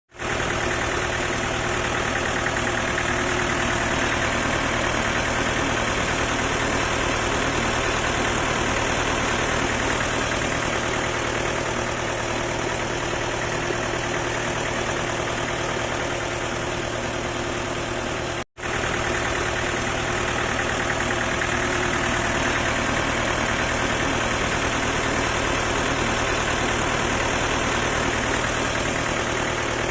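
Diesel 4x4 engine idling steadily, driving a generator. The sound is broken by a split-second dropout about two-thirds of the way through.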